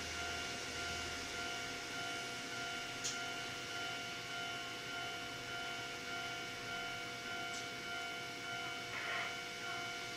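Steady hum and whine of a stationary Kintetsu electric train's onboard equipment, its auxiliary power and air conditioning, heard inside the cab. A few steady tones sit over a soft hiss, with two faint clicks.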